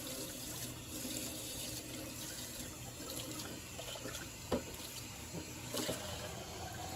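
Kitchen tap running into a sink, a steady rush of water, with two light knocks in the second half.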